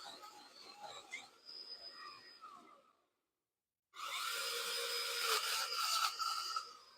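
Cordless electric pole chainsaw running and cutting through tree branches, its motor giving a steady whine. It fades to a quieter level early, cuts to a second of dead silence about three seconds in, then runs loud again until near the end.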